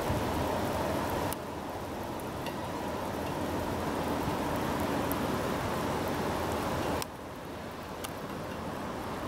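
Distant train approaching along the track, heard as a steady rushing rumble that slowly grows louder. The noise drops abruptly about a second in and again near the end.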